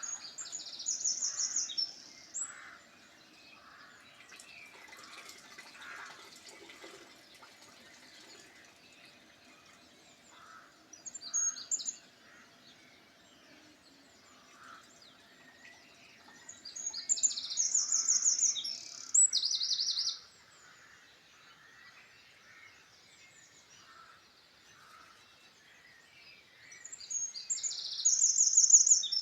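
Wild birdsong: a songbird sings loud, high, fast-trilled phrases two to three seconds long, four times, about every six to ten seconds, over fainter chirping from other birds.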